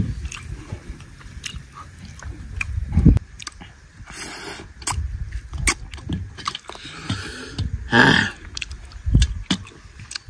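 Close-up chewing and biting of chicken curry with rice, with wet mouth clicks and smacks at an uneven pace. A louder noisy mouth sound comes about eight seconds in.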